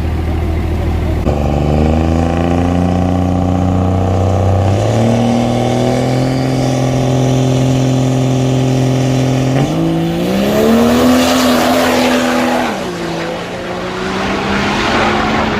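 Diesel truck engine running hard, its pitch stepping up abruptly three times and dipping near the end, with a loud rush of noise over the last few seconds.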